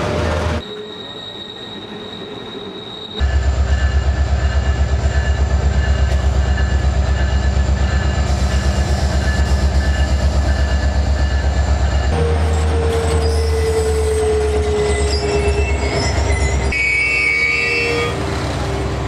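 Alaska Railroad EMD SD70MAC diesel-electric locomotives running with a loud, steady, rhythmic low throb that starts abruptly about three seconds in. About twelve seconds in, a long squeal slowly falls in pitch, and higher squeals from the train follow near the end.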